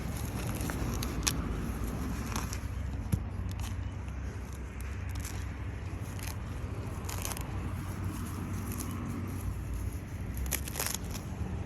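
Weeds being pulled by hand: rustling, tearing and crackling of leaves and roots coming out of the soil, in short irregular bursts over a steady low rumble.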